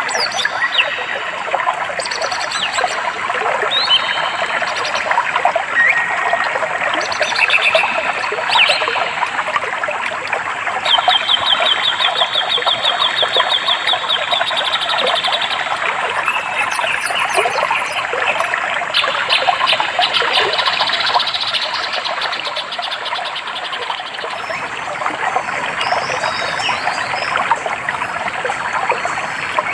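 A stream trickling and burbling, with several songbirds whistling and calling over it, among them a fast, even trill that runs for about five seconds near the middle and another shorter one a little later.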